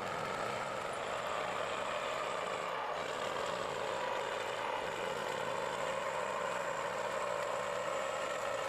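Heavy diesel truck engine running steadily under load, an even drone with no breaks.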